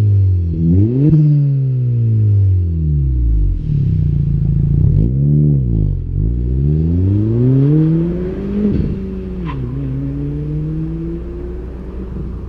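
A 2022–2024 Honda Civic Si / Acura Integra 1.5-litre turbocharged four-cylinder revving through an aftermarket exhaust: a quick blip about a second in, several short blips, then a longer climb that drops back to a lower, slowly rising held speed near the end.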